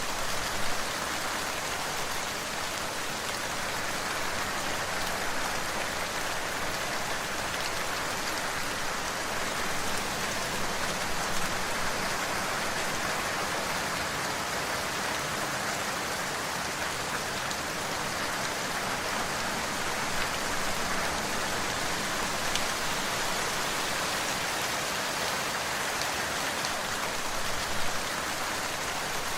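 Steady rain falling on a surface, an even hiss with the patter of individual drops; a few louder drops stand out briefly.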